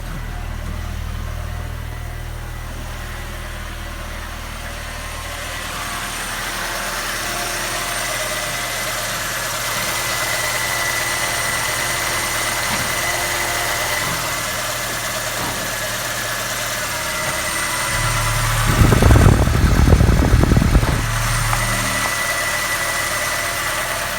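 Peugeot 306's 1.6-litre eight-valve four-cylinder petrol engine (TU5JP, code NFZ) idling steadily, run to show its condition. About three-quarters of the way through it gets louder and rougher for about two seconds, then settles back to idle.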